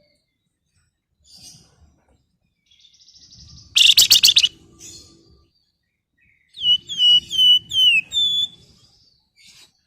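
Flamboyan songbird singing: a dense, rapid trill about four seconds in, then a run of quick, falling whistled notes near the end, with a few faint chirps between.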